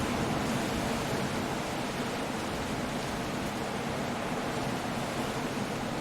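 Stormy sea surf and wind on a rocky coast, a steady, even rush of noise with no breaks.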